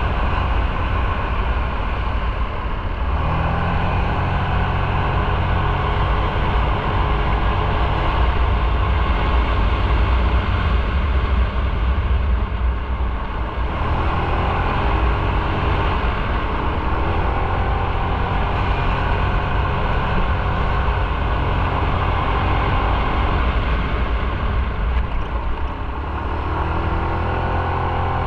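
Motorcycle engine running under way with a steady rushing noise over it. The engine note changes pitch a few seconds in, about halfway and near the end, rising again after each change.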